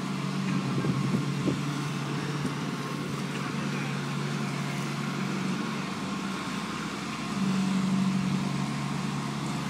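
Engine of a slurry seal paving truck running steadily with a constant low hum, growing louder for a second or so near the end.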